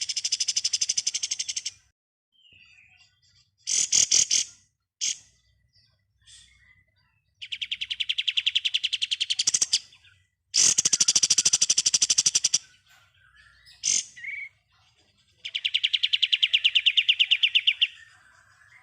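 Kapas tembak songbird singing its rapid rattling trill (ngebren): four long, fast, high trills of about two seconds each, with a few short sharp calls between them.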